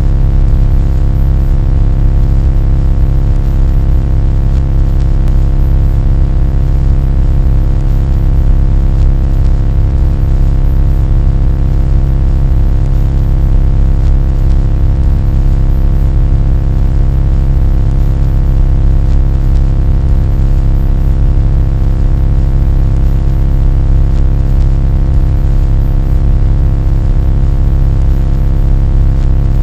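Loud, steady low rumble with a dense set of faint fixed tones above it, unchanging throughout.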